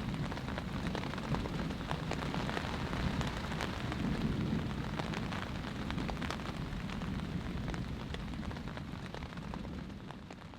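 Heavy rain falling steadily during a thunderstorm, with many sharp individual drop hits close by. It fades out near the end.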